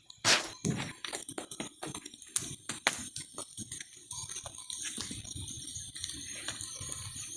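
Bonfire crackling, with many irregular sharp snaps and pops over a steady hiss.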